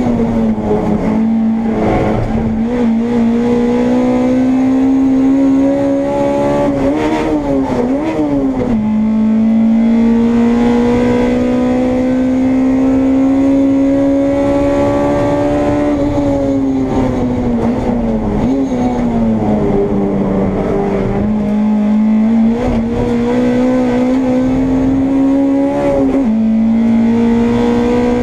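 Honda Integra race car's engine heard from inside the cabin under racing load, its note climbing steadily through the gears. It falls away with quick blipped downshifts about seven and eighteen seconds in, and drops sharply on an upshift near the end before climbing again.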